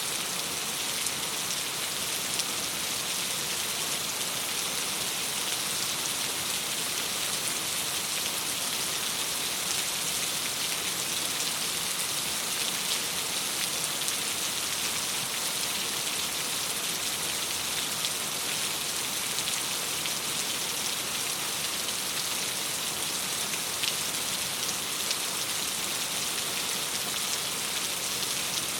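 Steady rain against a window: an even, dense hiss with faint scattered drop ticks.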